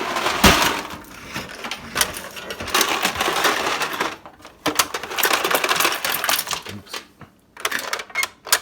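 Irregular clattering and sharp clicks of ice and hard plastic parts being handled in a refrigerator's ice compartment, with a run of separate clicks near the end.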